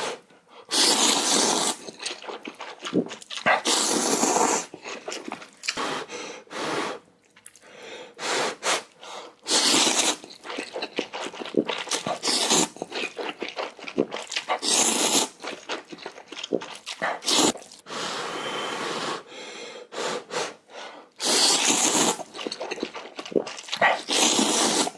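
A person eating spicy instant ramen close to the microphone: loud slurps of noodles every few seconds, with chewing and smacking between them.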